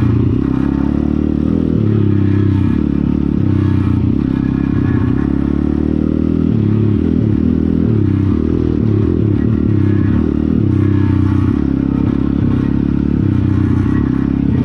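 Pit bike's small single-cylinder engine running, its pitch rising and falling as the throttle is varied.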